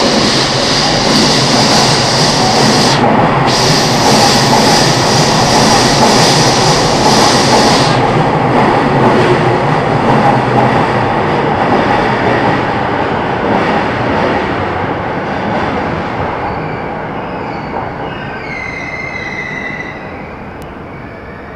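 E233-series Keihin-Tohoku Line electric commuter train pulling into the station: loud running noise of wheels on rail that fades as it slows, with a wavering brake squeal about three quarters of the way through as it comes to a stop.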